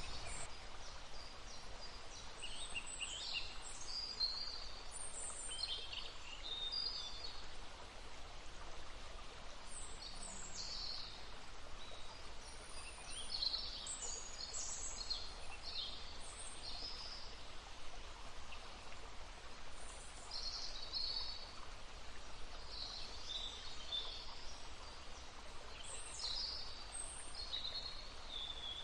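Songbirds singing in short, high, chirping phrases, several in turn, over the steady rushing of a babbling brook.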